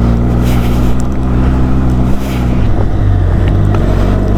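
Benelli TRK 502X's parallel-twin motorcycle engine running steadily under way, its note shifting about two and a half seconds in.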